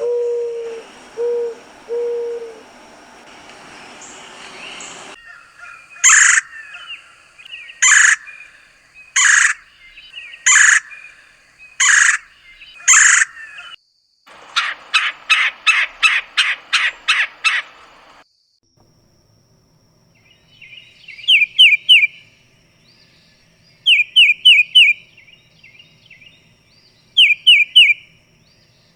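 Several different birds calling in turn: a few low hooting notes, then a series of loud harsh calls about one every second and a half, then a rapid run of short notes, then repeated groups of three high chirps.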